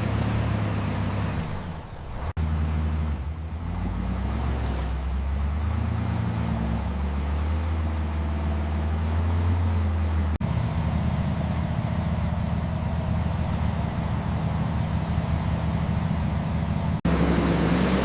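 Heavy dump truck diesel engines running with a low, steady drone. The sound cuts abruptly between clips a few times.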